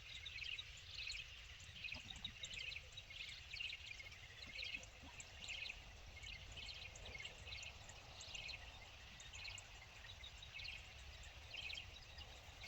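Small birds chirping faintly and repeatedly, short high calls coming about once or twice a second, over a low steady outdoor rumble.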